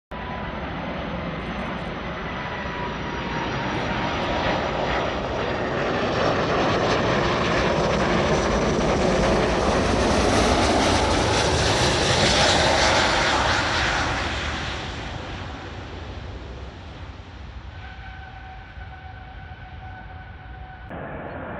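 Jet airliner passing, its engine noise swelling to a peak a little past halfway and then fading away. A steady whine stands out under the fading noise near the end.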